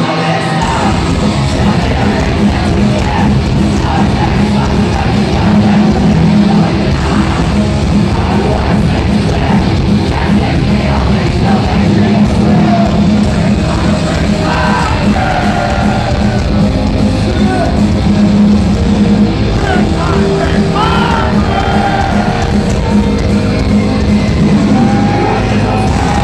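Heavy rock band playing live at full volume, with distorted guitars, bass and drums under a vocalist who sings and yells.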